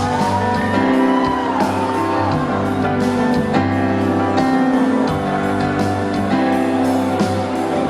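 Live band playing the instrumental intro of a slow pop ballad, with guitar chords changing every second or so over a steady bass.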